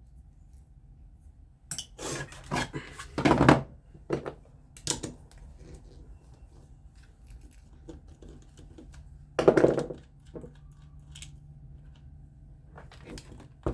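Metal fan parts and a hand tool being handled during disassembly: a run of clinks and clatters about two to five seconds in, the loudest near three and a half seconds, and another loud clatter near nine and a half seconds.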